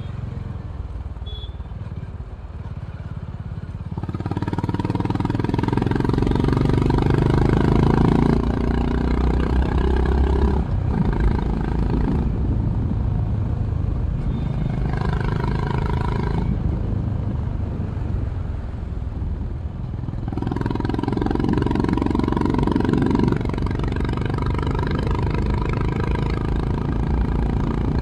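Honda CB350 RS's single-cylinder engine running through its stock exhaust on the move. It pulls harder several times, about 4, 12 and 20 seconds in, and eases back between the pulls.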